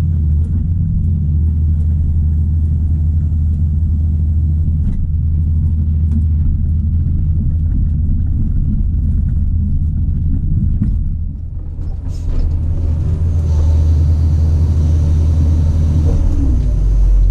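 Caterpillar 973C track loader's six-cylinder turbo diesel running with a steady low rumble and scattered knocks. It eases briefly around eleven seconds in, then comes back louder with a higher whine, as if working under load.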